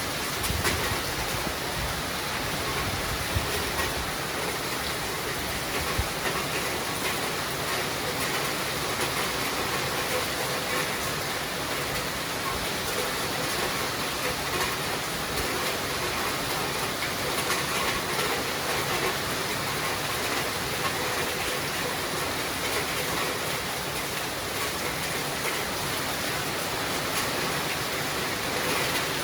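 Steady rain falling, an even hiss with a few sharper drip taps in the first few seconds.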